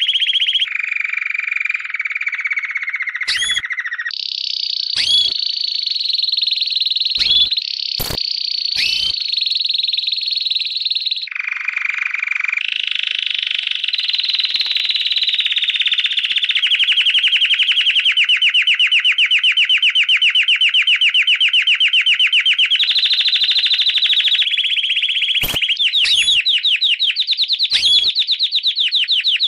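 Lovebird's long ngekek: a very rapid chattering trill held on for many seconds, jumping in pitch in sudden steps, with short sharp chirps breaking in here and there.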